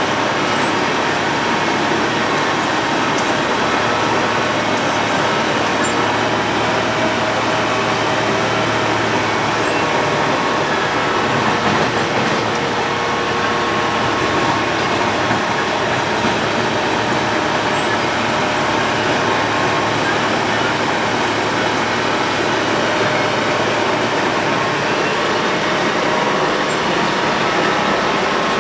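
Road planer (cold milling machine) milling off the asphalt road surface: a loud, steady mechanical noise with a few held tones over it.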